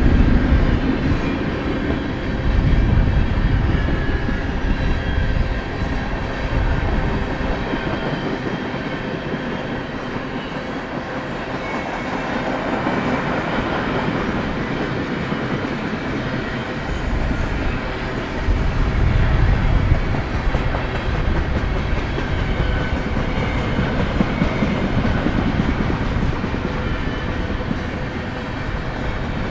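BNSF manifest freight train rolling past close by, a continuous heavy rumble of the cars on the rails. The low rumble eases for several seconds near the middle, then builds again.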